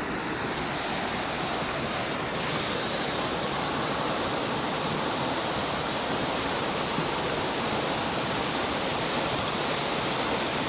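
Rushing stream water: a steady, even rush that grows a little louder about two seconds in.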